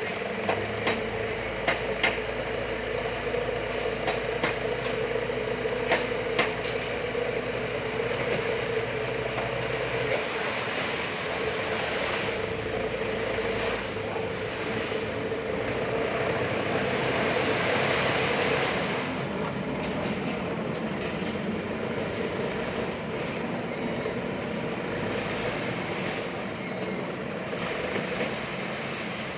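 Dyna dump truck running while it tips its bed to unload a full load of sand: a steady whine over the engine, with a rushing noise that builds and then fades, and the whine stops about two-thirds of the way in.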